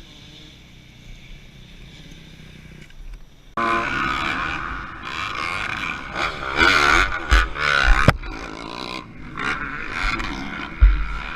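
Quiet at first, then about a third of the way in a motorcycle engine starts revving, its pitch wavering up and down, with a few sharp knocks later on.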